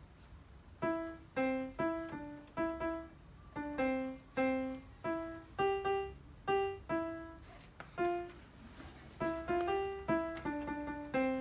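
A simple piano melody played one note at a time, each note struck and fading, in an even pace with a brief pause past the middle.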